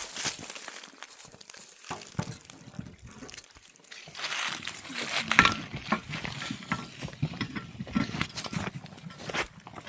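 Crunching and rustling handling noises, a string of short irregular clicks and scrapes, with a person's voice at times.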